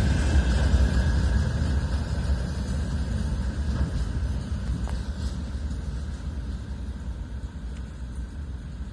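Freight train rumbling as it pulls away, a steady low rumble that fades gradually.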